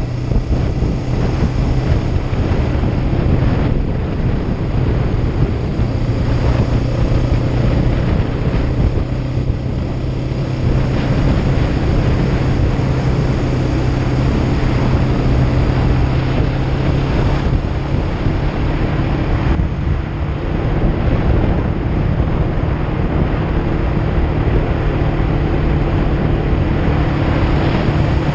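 Kawasaki Ninja 500's parallel-twin engine running at steady riding revs, its pitch creeping up a little in the second half, under heavy wind rush on the camera microphone.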